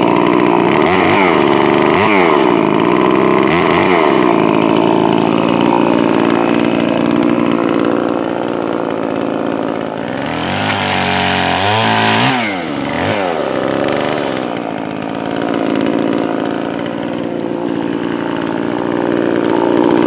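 Poulan Pro 4620 two-stroke chainsaw running, its engine freshly rebuilt with a new piston and set rich for break-in. It revs up and down a few times near the start and again several times midway, and otherwise runs steadily.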